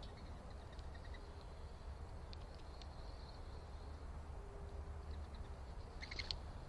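Faint, short high chirps of small backyard birds, with a brief burst of several chirps about six seconds in, over a steady low rumble.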